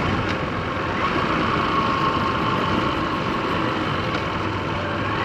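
Motorcycle engine running steadily in fourth gear at a cruise, heard from the moving bike with wind and road noise.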